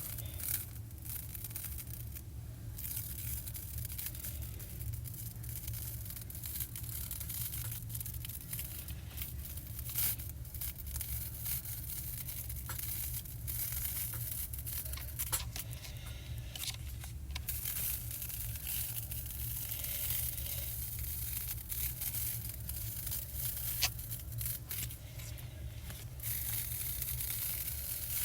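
Stickers being peeled off their backing sheets again and again, with short tearing rasps and paper rustling, over a steady low hum.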